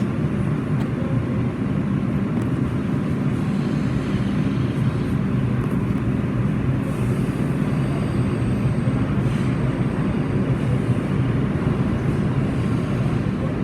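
New York City subway train running between stations, heard from inside the car: a steady rumble of wheels on rail with a low motor hum.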